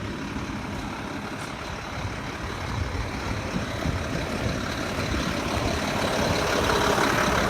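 Diesel engine of a Mack LEU garbage truck running steadily, growing gradually louder.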